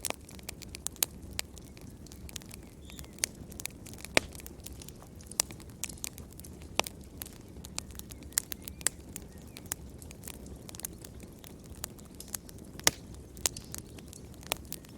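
Wood fire crackling: irregular sharp pops and snaps, a few louder ones, over a steady low rumble of burning.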